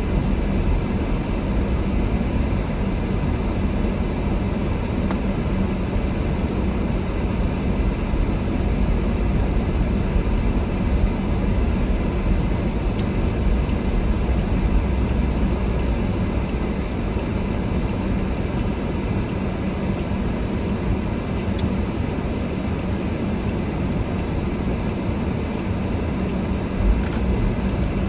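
Car driving on a snowy road: a steady low engine and tyre rumble with no change in speed, and a single brief click near the end.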